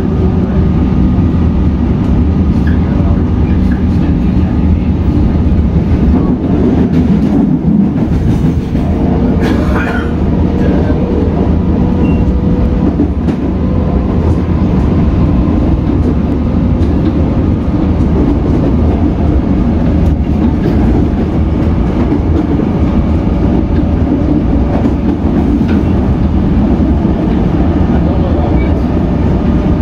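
Inside a Comeng electric suburban train running on the line: a steady, loud low rumble with faint steady tones. One tone rises slowly as the train picks up speed leaving the station, and the wheels click now and then over the track.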